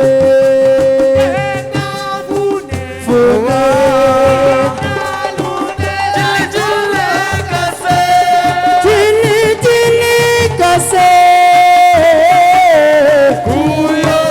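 Live Senegalese assiko band music: hand-drum percussion keeping a steady beat under a long, sliding melodic lead line.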